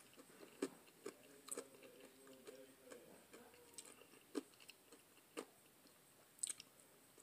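Faint close-up chewing of fried catfish fillet, mouth clicks and smacks scattered about once a second over near silence.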